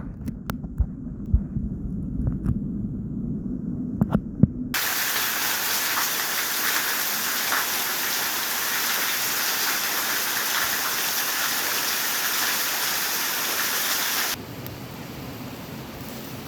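Steady rushing water, an even hiss that cuts in suddenly after a few seconds of low rumble and scattered clicks, then drops abruptly to a softer rush near the end.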